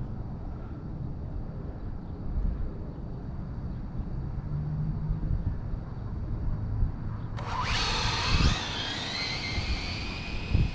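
Electric motors of RC drag cars whining at launch down the track: a sudden high whine starts about seven seconds in, rises in pitch, then holds until near the end. Before it, only a low rumbling noise.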